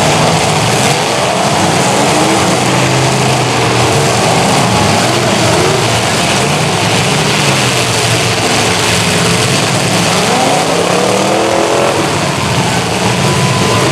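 Several demolition derby cars' engines revving hard at once, a loud continuous din with many overlapping engine notes rising and falling as the cars accelerate and back up.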